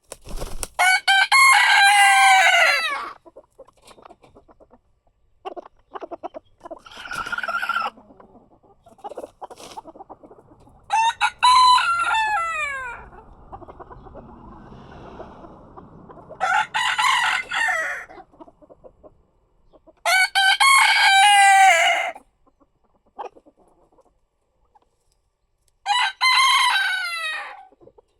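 Rooster crowing, five loud crows of about two seconds each, spaced several seconds apart, each ending in a falling note. A softer call and short quieter sounds fill the gaps.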